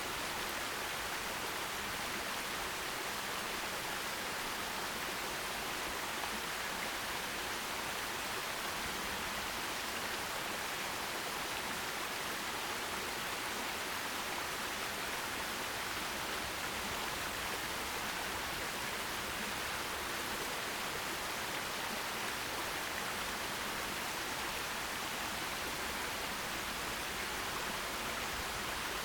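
Forest stream: water flowing and splashing steadily, an even rushing hiss with no distinct events.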